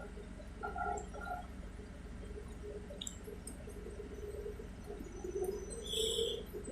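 Cabin noise of an electric bus in motion: a steady low rumble with a hum from the drive, and a brief high-pitched sound about six seconds in.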